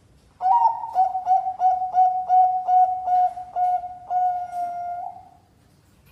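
Zebra dove (perkutut, Bangkok song type) cooing. It gives a quick series of about ten short, clipped coos at one pitch, about three a second, and ends on a longer drawn-out coo.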